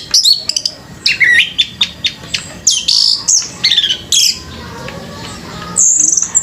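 Orange-headed thrush singing a loud, varied song of quick phrases with sliding whistled notes.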